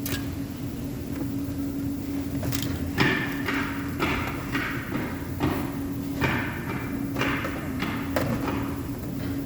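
A hammer striking metal, about eight blows with a short ringing after each, starting about three seconds in, over a steady low hum.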